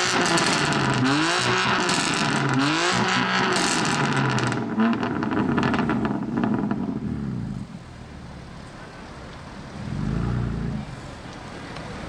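A BMW M3 F80's twin-turbo straight-six runs through a loud custom M Performance exhaust. The engine note sweeps up and drops several times in quick succession, then a run of crackles and pops comes from the exhaust. After that it falls to a quieter rumble, with one short swell near the end.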